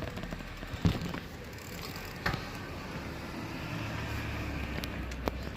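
Bicycle riding along a road: steady rumble of tyres and wind, with a few sharp clicks and rattles from the bike.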